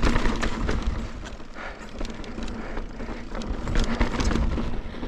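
Mountain bike riding over slickrock: many irregular knocks and rattles from the bike as it rolls over the rock, over a steady low rumble.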